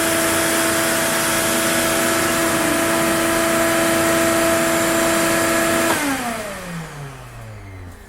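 CNC router spindle running with a steady high whine over a loud rush of noise, then switched off about six seconds in, its pitch falling steadily as it spins down.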